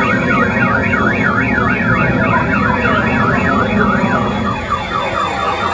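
Police siren in a fast yelp, its pitch sweeping up and down about three to four times a second, with the sweeps slowing near the end, over a steady loud low rumble.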